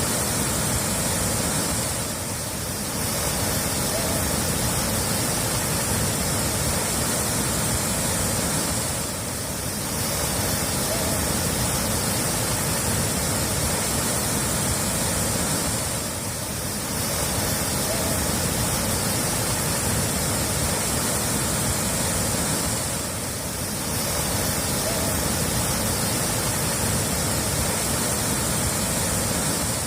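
Steady rushing of running water, an even hiss across the whole range, dipping briefly in level about every seven seconds.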